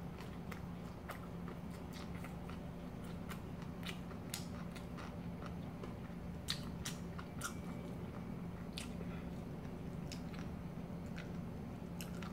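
Close-up mouth sounds of a person biting and chewing a seaweed hand roll filled with fresh sprouts: irregular crisp crunchy clicks, a little denser near the middle, over a steady low hum.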